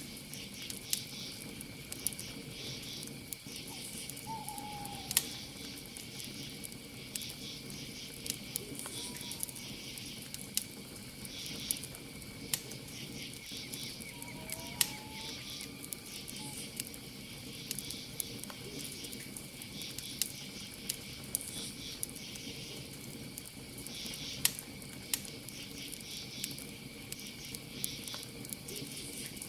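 Campfire crackling with scattered sharp pops over a low steady hiss, against a constant cricket trill and a pulsing high insect chorus. A few faint short calls come and go.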